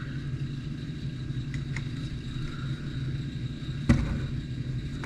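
Light clicks and one sharp knock about four seconds in, from plastic RC truck parts being handled on a work table, over a steady low hum.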